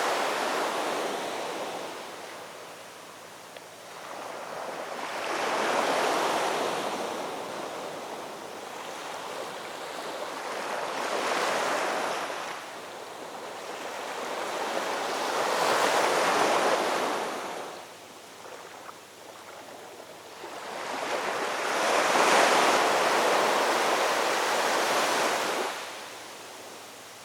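Ocean waves washing onto a shore. Each wave swells into a rush of surf and then ebbs, about every five seconds, and the last and longest surge fades away quickly near the end.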